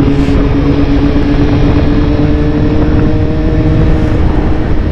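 Motorcycle engine holding a steady drone while riding at an even pace, under heavy wind rumble on the microphone.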